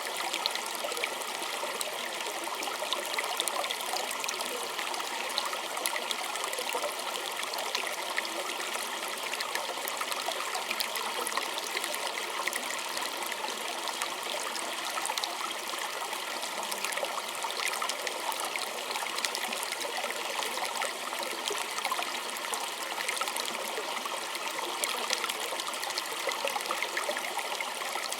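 Small stream trickling and babbling steadily over stones, a constant wash of water with many tiny splashes.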